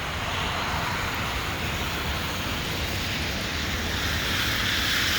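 Street traffic on a slush-covered road: a steady hiss of tyres through wet slush over a low engine rumble, growing louder in the second half as a vehicle draws near.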